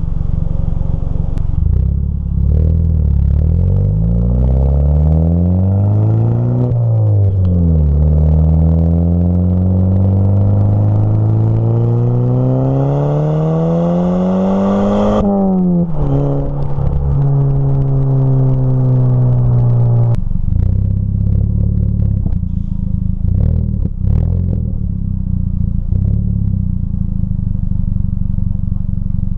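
Volkswagen Tiguan's engine through a modified exhaust with the stock muffler and resonator deleted and a small mid-pipe resonator. The engine note rises in pitch, drops briefly about seven seconds in, then climbs steadily for several seconds more as the car accelerates through a gear change. It drops suddenly to a steady note, then gives way about two-thirds of the way through to an uneven, crackly rumble.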